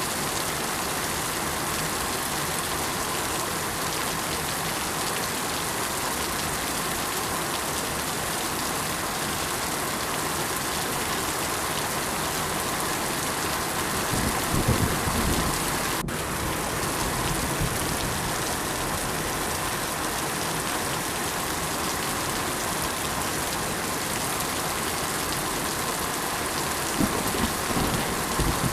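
Steady rain falling on a surface, an even hiss throughout. Two brief low rumbles rise above it, one about halfway through and one near the end.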